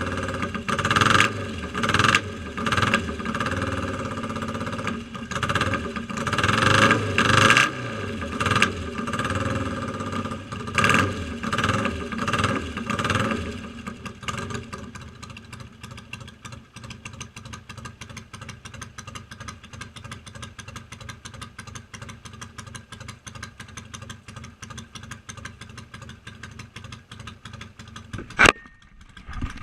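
1971 BSA Lightning's 650 cc parallel-twin engine being revved in repeated short throttle blips, then settling to a steady idle with a fast, even beat. A single sharp bang comes near the end.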